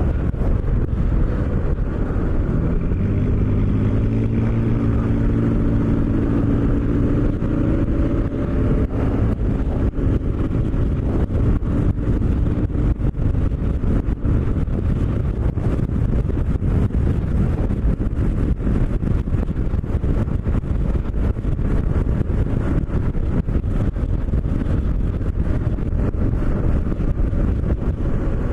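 Kawasaki KLR650 single-cylinder engine under way, its pitch rising for several seconds as the bike accelerates, then holding steady at cruise over constant wind and road noise.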